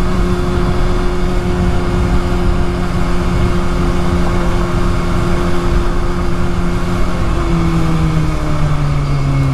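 Motorcycle engine running steadily at road speed under heavy wind rush. Near the end its pitch drops in two steps as the engine slows.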